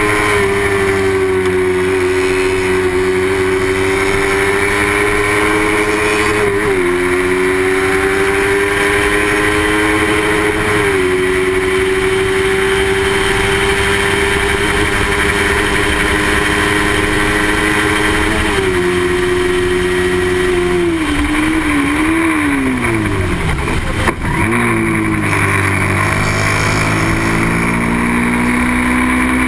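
Small-displacement racing motorcycle engine run hard at high revs, with brief dips in pitch at gear changes about 7, 11 and 19 seconds in. Near the end the revs fall in steps as it brakes and downshifts, there is a sharp click, and then the engine pulls and climbs again.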